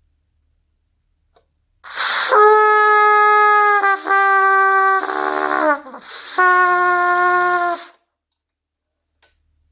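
Cornet playing long held tones: a breathy start, then a sustained note, a slightly lower one, an unsteady sliding lower stretch where the tone wavers, and after a short break one last held note that stops about two seconds before the end.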